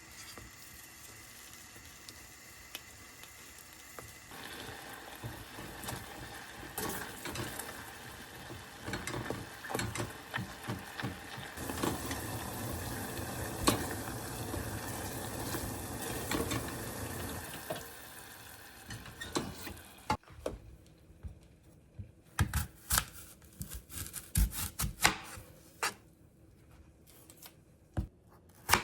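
Food sizzling in a pan, with a utensil stirring and scraping. About two-thirds of the way in the sizzle stops, and a run of sharp knocks follows.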